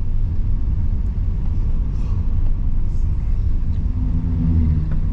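Car running on the road, heard as a steady low rumble of engine and tyre noise from inside the cabin.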